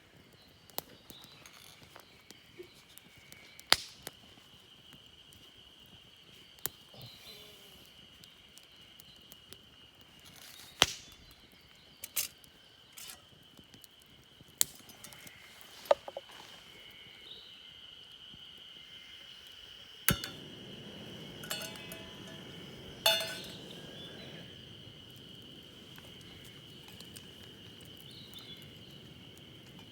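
Scattered sharp clicks and clinks, about a dozen, over a steady high insect trill. A low rushing noise joins about twenty seconds in.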